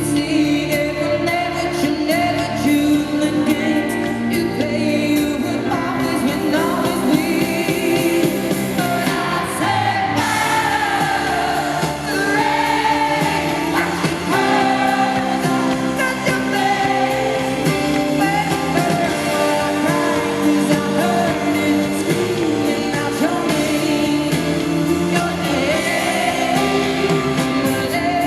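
A female pop singer sings a ballad live with a full band behind her, amplified through an arena's sound system.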